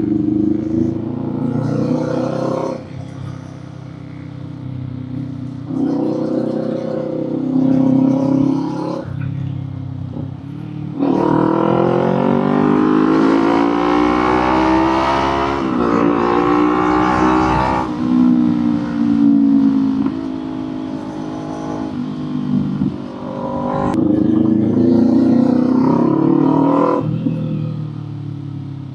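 Kawasaki Z400 parallel-twin engine through its exhaust under several throttle pulls. Engine pitch climbs and drops back between them, with a long spell of acceleration and revving in the middle.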